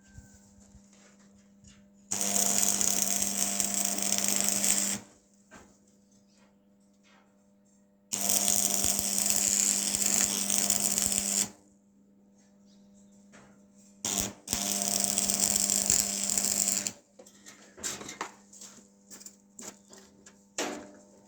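Metalworking noise in three bursts of about three seconds each: a loud, steady hiss over a hum that starts and stops abruptly. Light clicks and taps come between the bursts.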